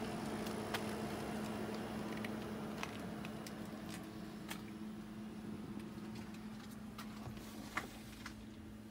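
Steady low hum of a Honda car idling, heard inside its cabin, growing gradually fainter, with a few light clicks and taps scattered through it.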